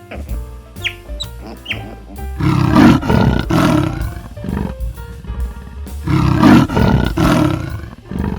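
A large wild animal roaring twice, each bout a couple of seconds long, over background music.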